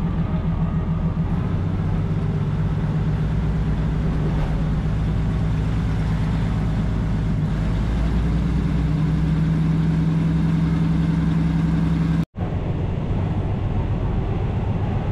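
A diesel engine runs steadily with a low, droning note, which fits the Maeklong line's train crawling through the market. The engine grows a little louder about eight seconds in. The sound drops out for an instant about twelve seconds in.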